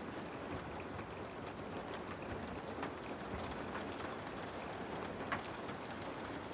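Steady rain falling, with many individual drops tapping against a window pane. One drop taps louder a little after five seconds in.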